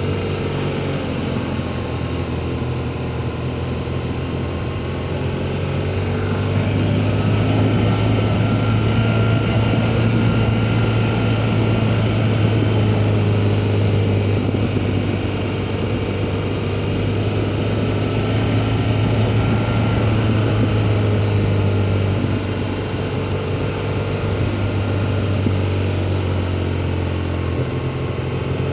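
BMW R1200GS boxer-twin engine running steadily while riding, a deep drone with wind noise, its pitch drifting gently up and down. It grows a little louder after about six seconds and eases back near the end.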